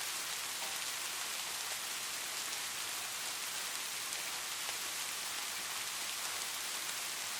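Light rain falling steadily: an even hiss of fine drops with faint scattered patter.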